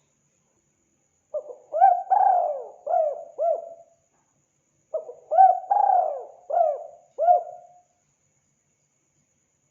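Spotted dove (tekukur) cooing: two phrases of about five rising-and-falling coos each, the first starting just over a second in and the second about five seconds in, with a pause between.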